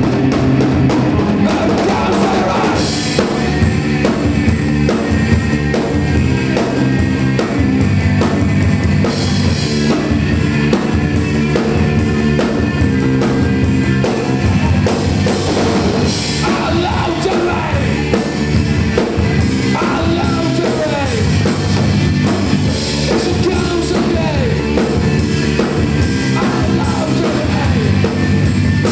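A rock band playing live: a drum kit driving a steady beat under electric guitar and bass, loud and continuous.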